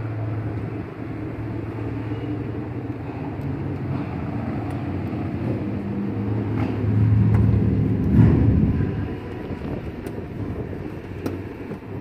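A motor vehicle's engine running, a steady low hum that grows louder to a peak about eight seconds in and then fades, as if passing close by. A few faint light clicks sound over it.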